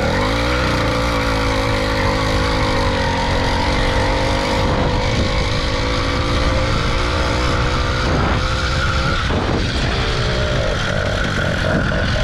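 80cc two-stroke motorized-bicycle engine running under throttle. Its pitch rises just after the start, holds, then drops and picks up again in the second half.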